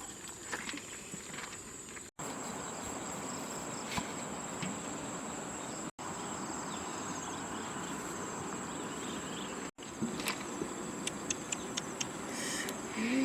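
Insects chirring in one steady high tone over a low, even rushing background, with a few light clicks and taps near the end. The sound cuts out for an instant three times.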